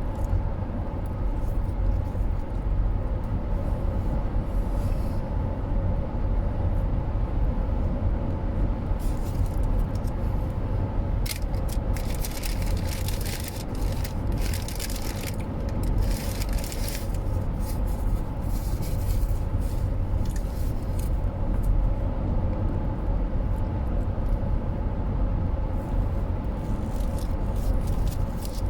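Steady road and engine rumble of a moving car, heard from inside the cabin. Several short bursts of rustling come between about ten and seventeen seconds in.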